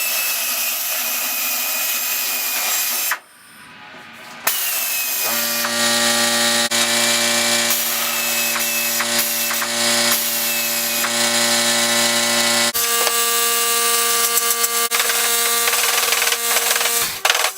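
Handheld power tool running, with a motor whine over a bright hiss. It runs about three seconds, pauses briefly, then runs steadily for about thirteen seconds before cutting off near the end.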